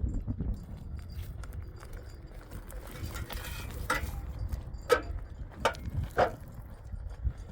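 Four sharp clinks of hard objects knocking together, spread over a couple of seconds past the middle, over a low rumble.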